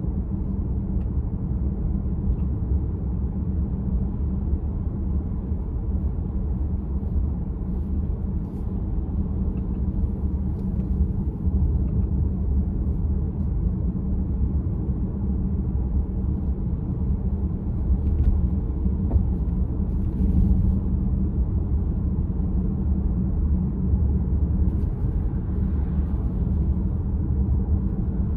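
Steady low road and tyre rumble inside the cabin of a VW ID.4 electric car while driving, with a few faint ticks.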